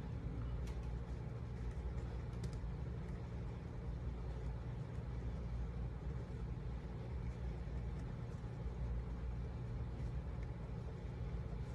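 A steady low hum, with a few faint light ticks now and then.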